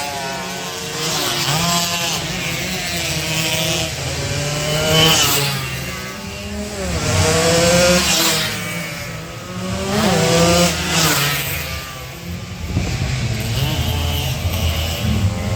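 Two-stroke 116cc underbone race motorcycles revving hard as they pass, the shrill engine pitch rising and falling several times, about every two to three seconds.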